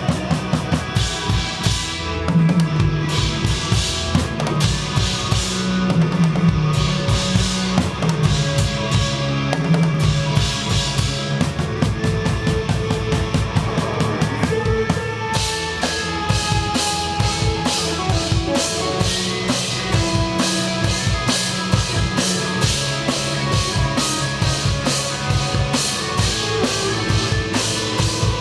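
A live rock band playing, with the drum kit close and loudest: a driving kick-and-snare beat under sustained bass notes and other instruments. About halfway through, the cymbals come in with steady, fast strokes.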